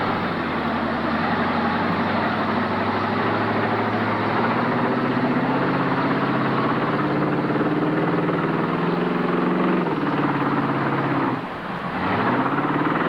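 A truck engine runs loudly and steadily, its pitch slowly climbing. About two seconds before the end it briefly drops off, then revs back up.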